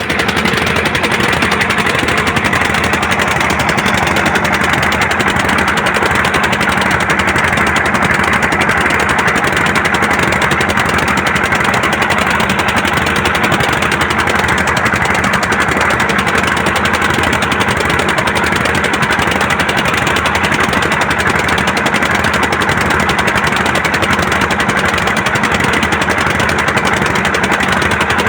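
Diesel engine running steadily, with a rapid, even beat that does not change.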